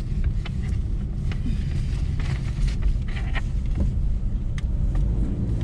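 Small car driving slowly, a steady low rumble of engine and tyre noise with a few faint clicks.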